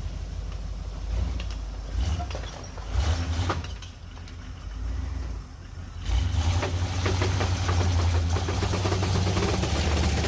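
Jeep J20 pickup's engine running steadily, with a few knocks and clatters. About six seconds in it grows louder and rougher, the engine working harder.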